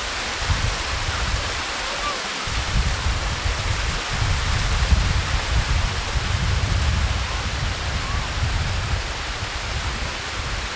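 Steady rushing noise of flowing water, with wind buffeting the microphone in uneven low rumbles.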